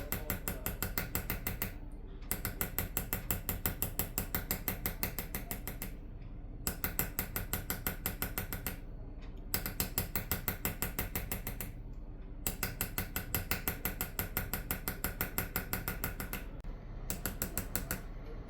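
Rapid, even metallic tapping of a small hammer driving a steel engraving chisel into silver (Persian qalamzani hand-engraving), in runs of a few seconds broken by short pauses, over a steady low hum.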